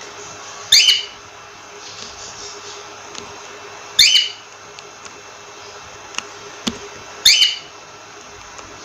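Cockatiel calling: three loud, short calls, evenly spaced about three seconds apart, over a steady background hum.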